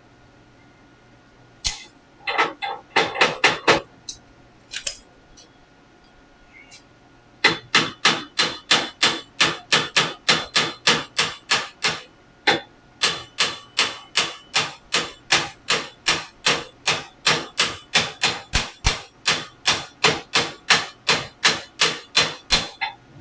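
Hammer striking metal in a fast even run of blows, about three a second with one short break, each blow with a metallic ring, after a few scattered strikes; a heated gear is being driven onto an air-cooled VW crankshaft.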